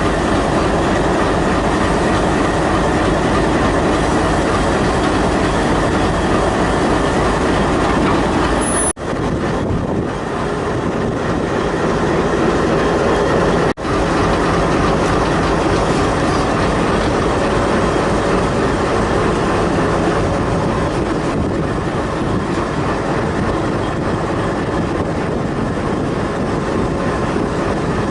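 Passenger train running along the track: a loud, steady rumble and clatter of the carriages on the rails, which drops out briefly twice.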